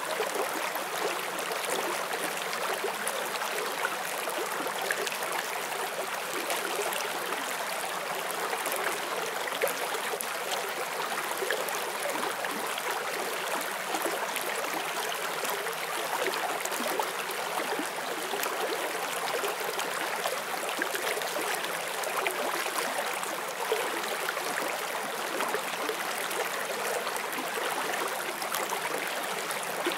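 A shallow forest stream flowing steadily, an even rush of water with fine bubbling and splashing throughout.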